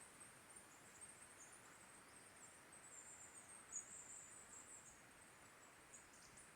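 Near silence: a faint hiss with thin, high-pitched twittering of small birds throughout.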